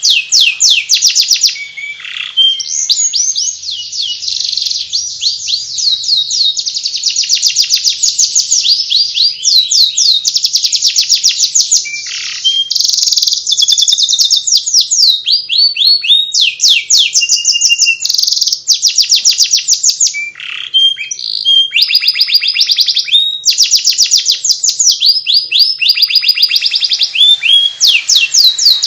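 Domestic canary singing the twittering warble that Indonesian keepers call ngeriwik: an unbroken stream of fast trills, each a rapid run of repeated rising notes, changing from one trill to the next with only brief breaks.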